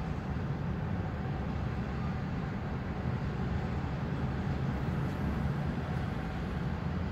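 Steady low rumble of a freight train's cars rolling across a steel trestle bridge, with no locomotive in earshot.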